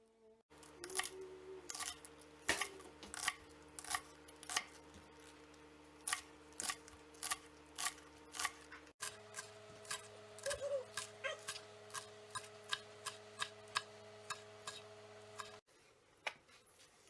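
Knife chopping on a cutting board in sharp, regular strokes over a steady hum. The chopping gets faster about nine seconds in.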